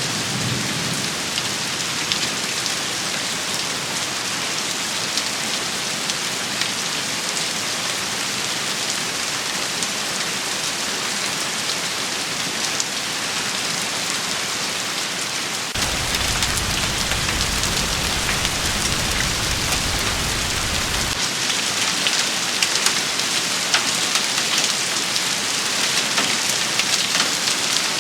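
Heavy rain shower falling steadily, a dense hiss full of sharp drop hits. A low rumble joins for about five seconds past the middle.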